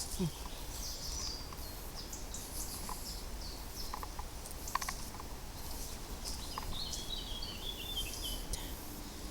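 Wild birds chirping against steady outdoor background noise, with a few faint clicks in the middle and a longer, quickly varying bird phrase near the end.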